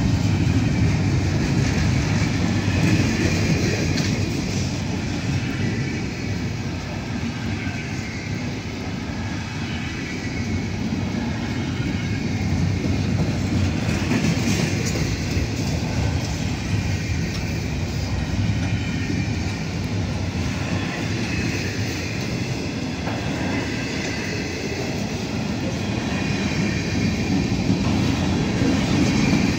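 Freight train of double-stack container well cars rolling past at close range: a steady rumble of steel wheels on rail.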